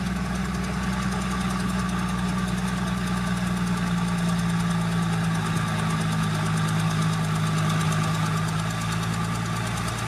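Diesel engine of heavy earthmoving machinery running steadily, its pitch dropping slightly about four seconds in.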